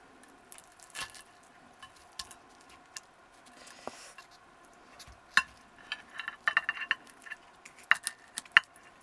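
Dishes and cutlery clinking and knocking in short, irregular clinks, sparse at first and coming thick and fast in the second half.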